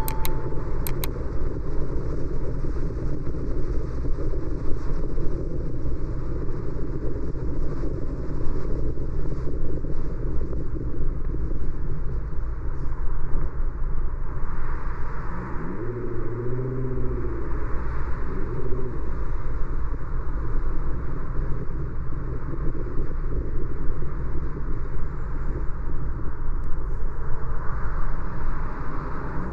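Steady road and engine noise of a car driving. About halfway through, an engine's pitch rises and falls a couple of times.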